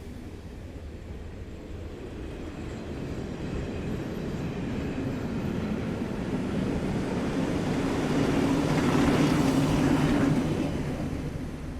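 Railway train running, its rumble growing steadily louder to a peak about nine to ten seconds in, then fading away.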